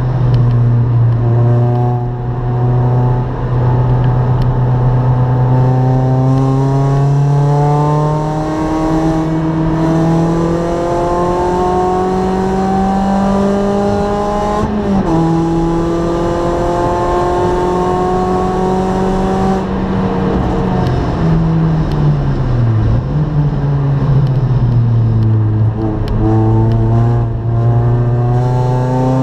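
Track car's engine heard from inside the cabin, pulling slowly up through the revs for a long stretch, with a gear change about fifteen seconds in. Revs drop off about twenty seconds in, dip briefly, then climb again near the end.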